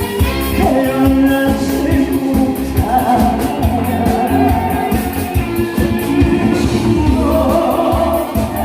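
A singer performing a Korean song over band accompaniment with a steady drum beat.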